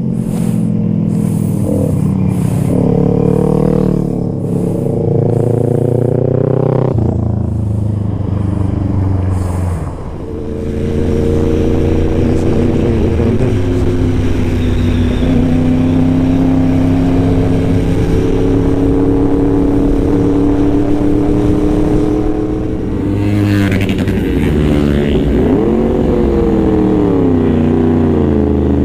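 Yamaha R1M's crossplane inline-four engine accelerating hard through the gears, its pitch climbing and dropping back at each upshift. It then holds a long, high, slowly rising note at speed, and wavers and falls near the end as it eases off.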